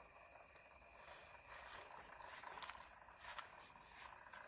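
Near silence with a faint steady high-pitched insect trill, typical of crickets at night.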